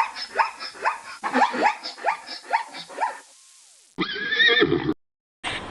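Equine calls: a rapid run of short rising yelps for about three seconds, then, after a brief pause, a single wavering whinny.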